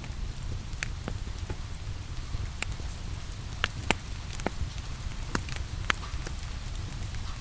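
Wood fire crackling in a fireplace, with a dozen or so sharp pops at irregular intervals over a steady rain hiss and a low rumble.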